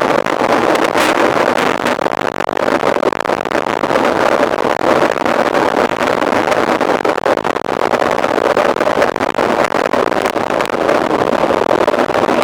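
Mountain bike ridden at race speed: a steady, loud rushing noise with a constant rattle of small knocks.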